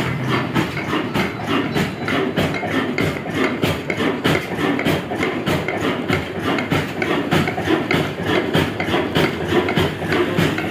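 Vintage Ruston Hornsby diesel engine running steadily under load, driving a small flour mill, with an even, fast knocking beat.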